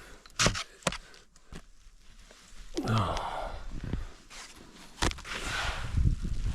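A few light knocks and scrapes, then a heavy breath with a short low grunt about three seconds in, as of someone exerting himself. From about five seconds in, wind buffets the microphone with a low rumble.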